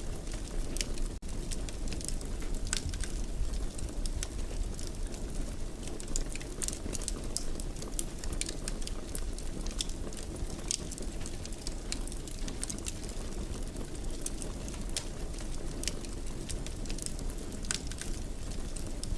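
Wood fire burning in a fireplace: a steady low rumble of flame with frequent irregular crackles and sharp pops.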